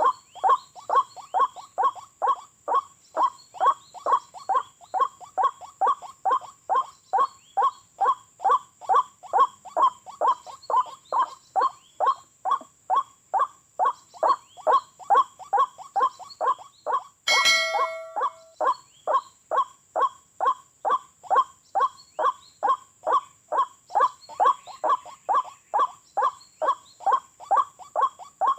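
White-breasted waterhen calls repeated over and over in an even rhythm, about three calls a second. A sharp click with a brief ringing tone cuts in about two-thirds of the way through.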